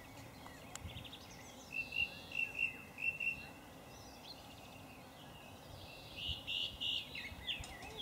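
Small birds chirping in the background: two spells of quick, high chirps, one about two seconds in and another near the end, over faint steady outdoor background noise.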